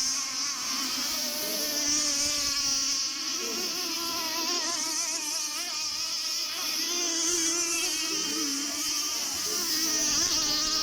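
Several radio-controlled racing boats' small two-stroke petrol engines buzzing at once, their pitches wavering up and down against each other as the boats race around the course.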